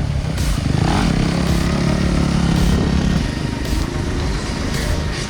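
Dirt bike engine running, its revs picking up about a second in, holding, and easing off a little after three seconds.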